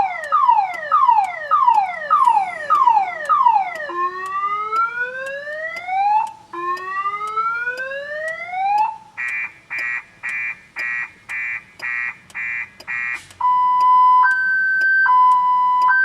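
Car alarm siren going off on a 2000 Chevrolet Impala, cycling through its tones: quick falling chirps about twice a second, then two slow rising whoops, then a run of short even beeps, then a two-tone high-low alternation near the end. The security system has been triggered and will not disarm, so the car won't crank.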